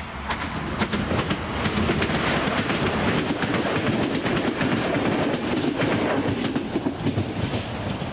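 Train passing, its wheels clattering over the rail joints in a quick run of clicks; the noise builds over the first second or two and starts to fade near the end.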